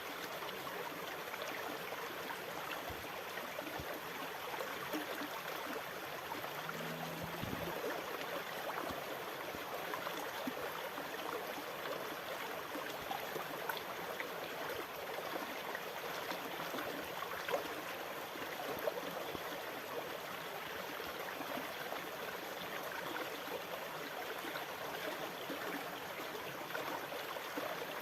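Steady, even rush of moving water with no rise and fall of breaking waves.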